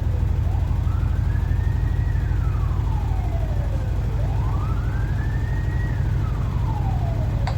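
A PAZ-4234-05 city bus's engine running steadily under load, the loudest sound. Over it, a siren wails in slow rising-and-falling sweeps, twice, with a short click at the start and another at the end.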